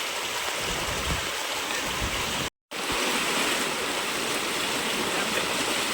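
Steady rush of flowing water, briefly cut to silence about two and a half seconds in.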